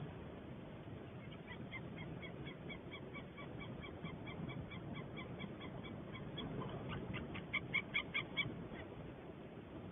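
White-tailed eagle calling a long, even series of short yelping notes, about four a second, the last few louder. A steady low rumble of background noise runs underneath.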